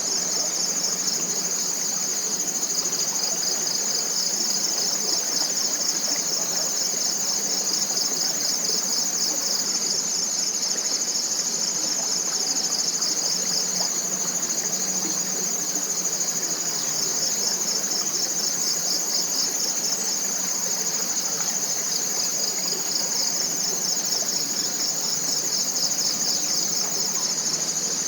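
Tropical forest insects, such as crickets or cicadas, in a steady high-pitched chorus, one layer a continuous trill and another pulsing rapidly just below it. A soft, even hiss runs underneath.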